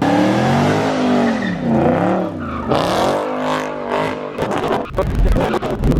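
Car engine revving up and down repeatedly with tires squealing as the car slides through donuts. Near the end a heavy low rumble with crackles takes over.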